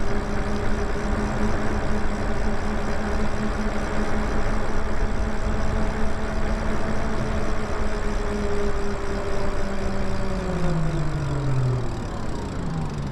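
Electric bike motor whining steadily under way, with wind and road noise, its pitch dropping near the end as the bike slows.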